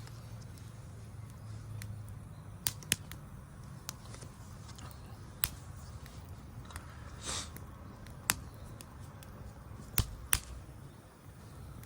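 Wood fire crackling: sharp, irregular pops and snaps over a low steady rumble, with a brief hiss about seven seconds in.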